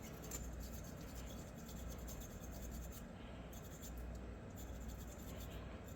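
Faint scratching and rubbing of a small bore brush being worked inside an SKS rifle's bolt during cleaning, over a faint steady low hum.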